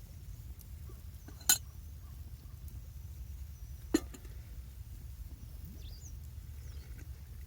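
Two sharp clicks, about two and a half seconds apart, over a steady low rumble.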